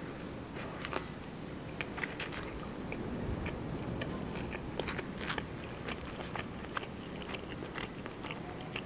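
A person biting into and chewing a shawarma wrap filled with Korean-style carrot salad: soft crunches and many small, sharp mouth clicks.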